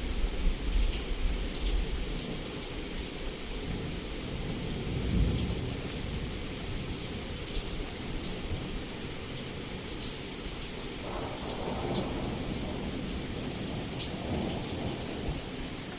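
Heavy rain pouring steadily against a window, with low rolling thunder that swells about five seconds in. Scattered sharp taps of individual drops sound over the rain.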